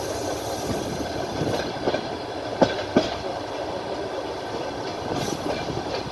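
Passenger train rolling along, heard from aboard: a steady rumble of wheels on rail, with the wheels clicking over rail joints, two sharp clacks a little before halfway.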